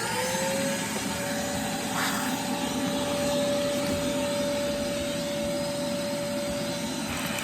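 Vacuum cleaner just switched on, its motor spinning up in the first second and then running with a steady whine and rushing suction, with a brief surge of hiss about two seconds in.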